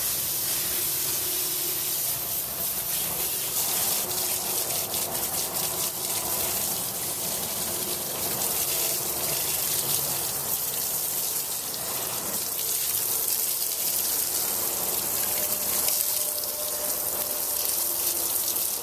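Garden hose on a soft spray setting rinsing soapy water off a car's engine bay, a steady, unbroken rush of water spattering over the engine.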